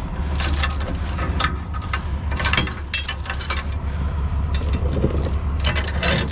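Steel tow chain clinking and rattling as it is fed over a truck's leaf spring, in irregular bunches through the first half and again near the end. An engine idles steadily underneath.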